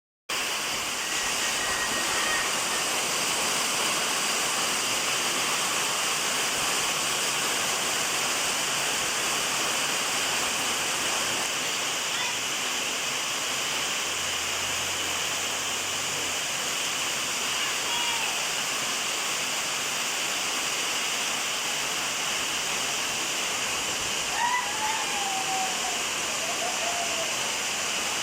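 Heavy rain falling hard, a steady rushing hiss, with a few short chirping sounds near the end.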